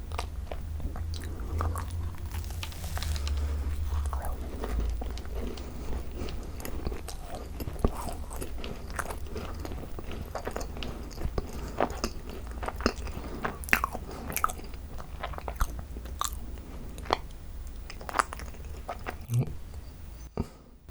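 Close-miked chewing of a ttungkaron, a Korean macaron thick with cream: many small sharp crunches and wet clicks as the shell and filling are bitten and chewed. A low rumble sits under the first few seconds.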